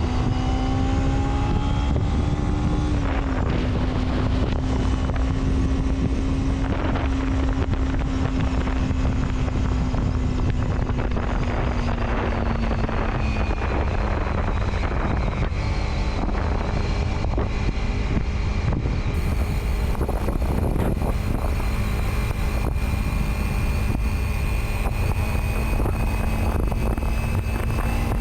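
Vehicle engine running at a steady cruising pitch that shifts slightly a few times, over heavy wind and road noise, with rain likely adding to it.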